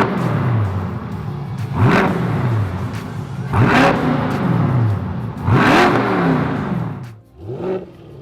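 A C8 Corvette's 6.2-litre V8 blipped through its exhaust, five quick revs about two seconds apart. Each rev climbs sharply and falls back toward idle, and the last one is smaller.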